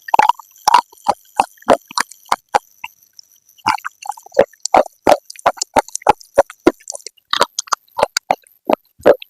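Close-up crunching of pieces of baked clay pot being chewed in the mouth: a run of sharp crunches about two or three a second, pausing briefly about three seconds in.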